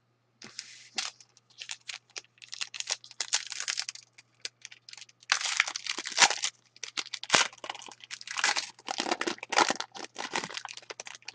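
Foil hockey card pack wrapper being torn open and crinkled, with the cards inside being handled, as a run of irregular crackling rustles.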